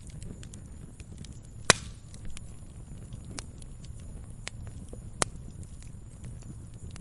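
Wood fire crackling in a fireplace: a steady low rumble of flame with scattered small snaps, and two sharp pops, one loud about a second and a half in and a smaller one near five seconds.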